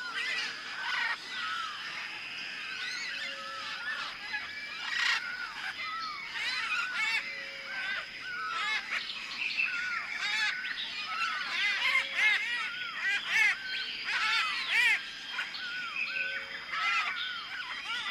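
A large flock of birds calling together: many short, overlapping calls with no let-up.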